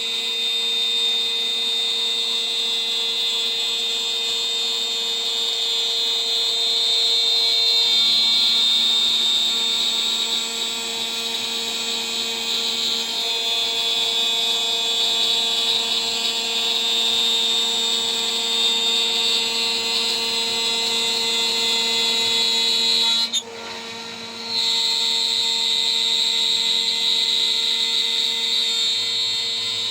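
DIY CNC router spindle turning a 3 mm three-flute end mill at about 14,000 RPM while milling, a steady high whine with a cutting tone that shifts as the load changes. A little over two-thirds of the way through, the sound drops sharply for about a second, then comes back.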